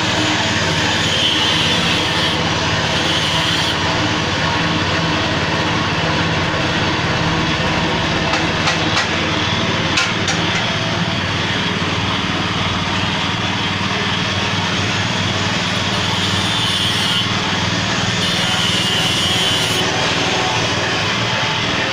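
Motor-driven peanut grinding machine with an added reduction gearbox running steadily, a constant mechanical hum with a grinding rasp on top. A few light clicks about eight to ten seconds in.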